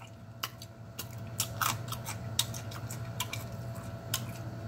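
Close-miked chewing of a crispy fried onion piece: irregular sharp crunches and clicks through the mouthful, over a low steady electrical hum.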